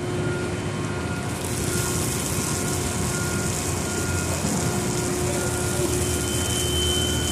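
Steady engine rumble of the heavy lifting machinery pulling the truck out, with a short beep repeating at an even pace and a hiss that comes in after about a second.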